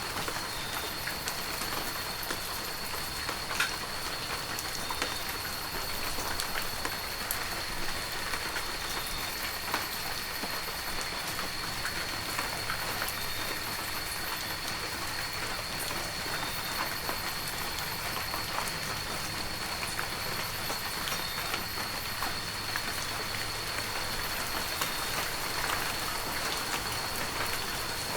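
Heavy rain falling steadily, with many scattered sharp drop hits and a thin, steady high tone running through it.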